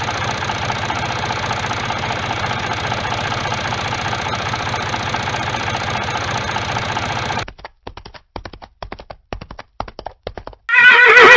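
A steady engine-like running sound with a fast pulse cuts off abruptly about seven seconds in. Scattered clopping hoofbeats follow, and near the end a horse starts a loud neigh.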